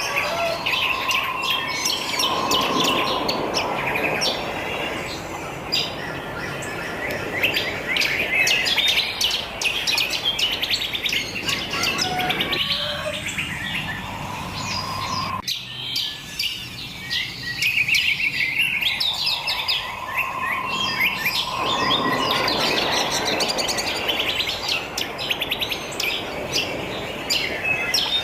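A chorus of wild songbirds chirping and twittering, many quick overlapping calls, over a steady background hiss. The hiss cuts off suddenly about halfway through and comes back several seconds later.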